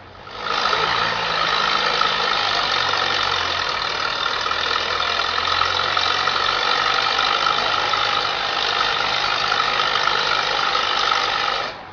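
Tractor engine running steadily, loud and close to the microphone; it cuts in abruptly and cuts off just before the end.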